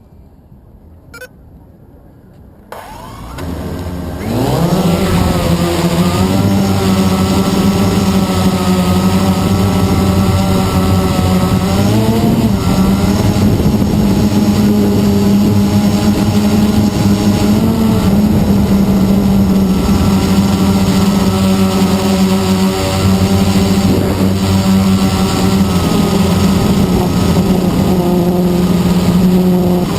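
Blade 350 QX quadcopter's electric motors and propellers spinning up about three seconds in, rising in pitch, then a steady loud hum with a hiss and small shifts in pitch as it flies.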